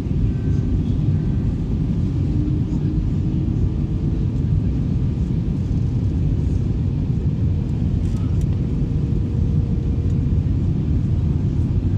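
Steady low rumble from an Airbus A321 airliner, with a faint steady hum over it.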